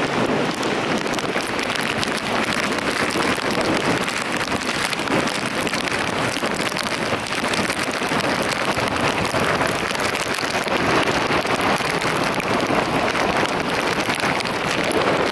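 Heavy typhoon rain falling steadily, a dense even hiss with no let-up.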